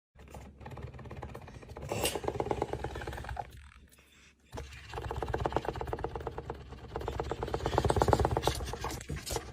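A domestic cat purring, in two long stretches with a short break just before halfway.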